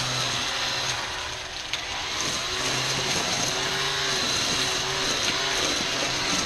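ECHO 58-volt battery string trimmer (PAS2620 power head with Pro-Torque trimmer attachment) running and cutting tall weeds and grass. Its whine eases off about a second in, then picks back up, and its pitch sags and recovers now and then as the line loads up.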